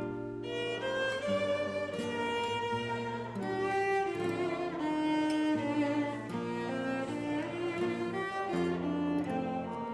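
Slow instrumental music of bowed strings, cello and violin, playing held chords that change about once a second.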